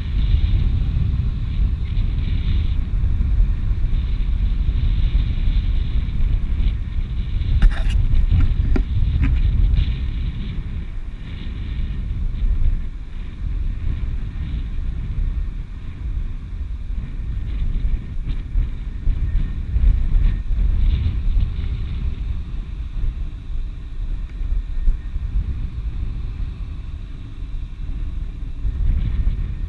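Wind buffeting the microphone: a loud, gusty low rumble that rises and falls throughout, with a few brief clicks about eight seconds in.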